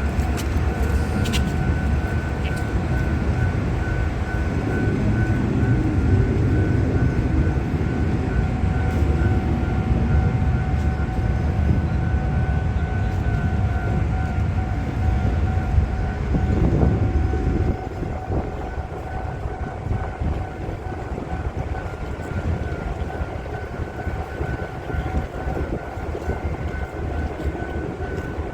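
The 高電001 railway engineering maintenance vehicle running during shunting with freight wagons: a steady low rumble with a constant whine over it, which drops in level about two-thirds of the way through.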